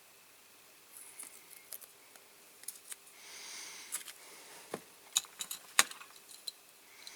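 Small hard objects being handled: a scatter of light clicks and taps, with a short rubbing noise around the middle.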